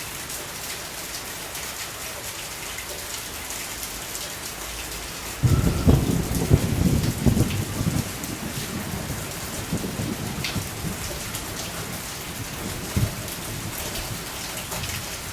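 Steady rain falling, with a thunderclap about five and a half seconds in: a sudden loud, deep rumble that dies away over the next few seconds. A short knock sounds near the end.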